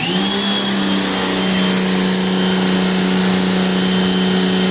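Electric pressure washer switching on and running steadily: a motor-driven pump hum that settles in pitch within a fraction of a second, with a hiss over it, working up to about 1300 psi at the gun.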